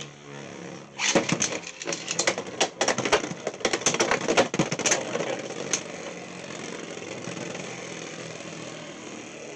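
Two Beyblade X spinning tops, Wolf Hunt and Roar Tyranno, battling in a stadium: a sudden start about a second in, then a rapid flurry of sharp clashing hits for several seconds, settling into a steady whir of the tops spinning on.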